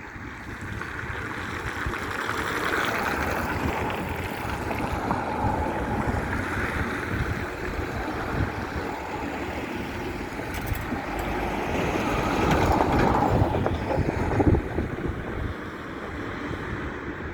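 Freight train hauled by a Siemens Vectron electric locomotive rumbling past, a steady noisy rumble that grows louder to a peak about three-quarters of the way in.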